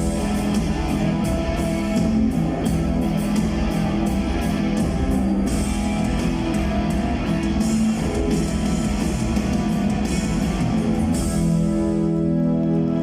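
Rock band playing live with electric guitars and drum kit, the drums hitting steadily. About eleven seconds in the drumming stops and a held chord rings on as the song closes.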